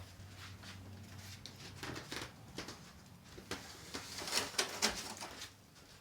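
Fiberglass insulation being handled inside an opened wall: scattered crackling and rustling, busiest a few seconds in.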